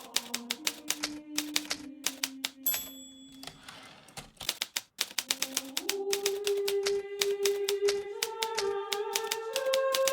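Hermes Baby portable typewriter being typed at a steady pace, keys clacking rapidly. Near three seconds in a short bell ring and a rasping carriage return, a brief lull, then typing resumes. Soft background music with slow held notes plays underneath.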